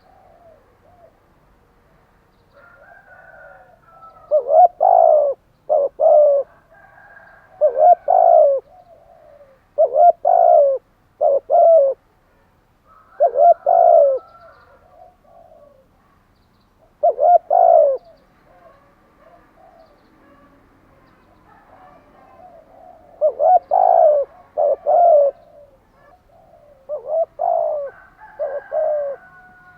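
Spotted dove cooing in repeated phrases of two or three deep notes, each phrase followed by a pause of a few seconds. Fainter, higher chirps of other birds sound between the phrases.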